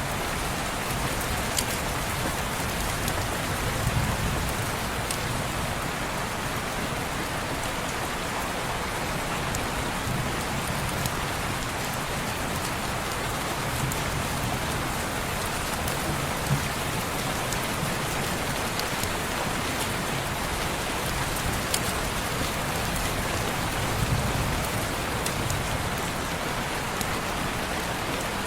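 Steady rain falling on window glass, an even hiss with scattered sharp ticks and a few soft low swells.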